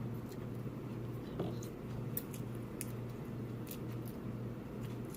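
Soft eating sounds: scattered faint clicks and wet smacks of chewing, over a steady low hum.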